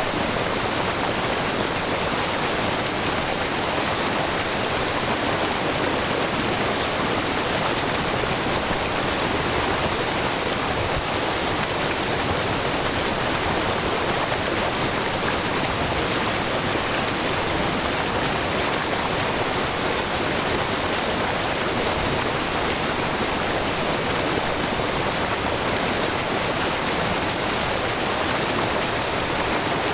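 Shiraito Falls, a wide, low curtain of spring water pouring about 3 m over a long rock face in many small streams. The water rushes and splashes in a steady, unbroken wash.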